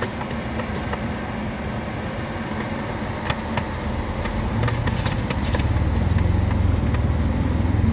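Car engine and road noise inside the moving car: a steady low rumble that grows louder about halfway through, as if the car is speeding up, with a few light clicks.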